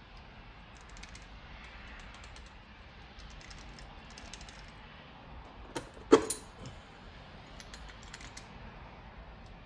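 Small metallic clicks and taps come in clusters as tools and engine parts are handled, with one sharp, loud metal clank about six seconds in.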